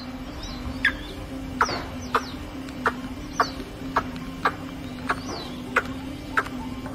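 White-breasted waterhen calling: a rapid series of short, sharp notes, about two a second.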